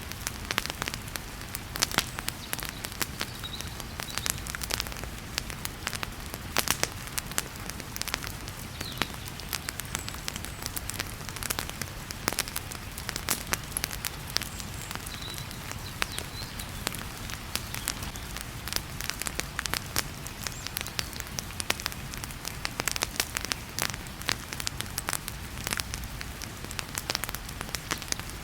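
Wood fire crackling in a fireplace, with many sharp, irregular pops, over the steady hiss of heavy rain.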